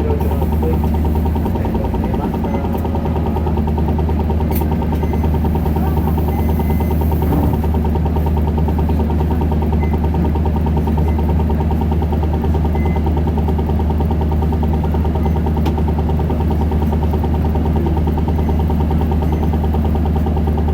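Isuzu Erga 2KG-LV290N2 city bus's four-cylinder diesel engine running steadily, heard from inside the passenger cabin as a deep, constant drone.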